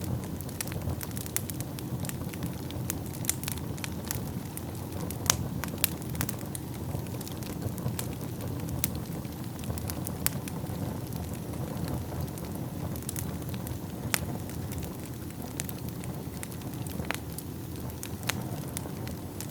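Wood fire burning in a fireplace: a steady low roar of flames with frequent sharp crackles and pops from the burning logs, a few louder pops standing out.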